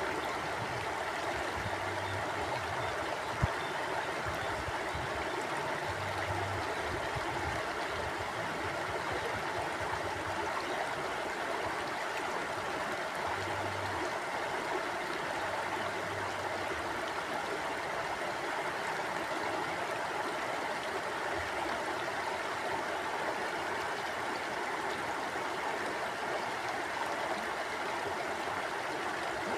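Stream water flowing steadily, an even rushing and babbling, with a single brief click about three and a half seconds in.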